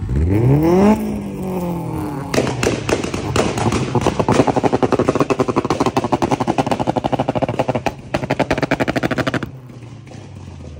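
A car engine is revved once, its pitch climbing and then falling away. It is then held high with a rapid, even string of sharp pops for about seven seconds, which cuts off about nine and a half seconds in and leaves a much quieter engine sound.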